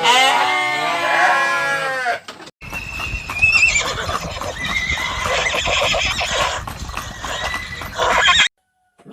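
Lambs bleating in wavering calls for about two seconds. After a short break, wind rumbles on the microphone while another animal gives a few high, wavering calls, and the sound cuts off near the end.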